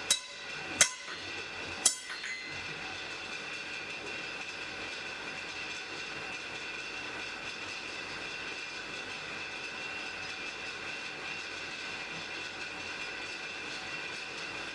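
Three hammer blows ringing on an anvil in the first two seconds, over the steady rush of a forge fire.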